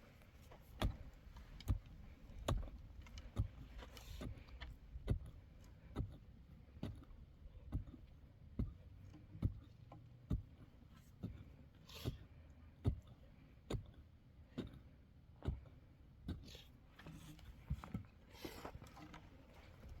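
Regular sharp knocks, a little under one a second, with a few short scrapes in between, like hand work on a building site.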